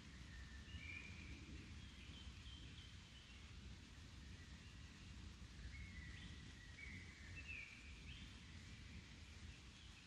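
Faint birdsong: short whistled phrases at steady pitches, one bout about a second in and another from about six to eight seconds, over a low steady background rumble.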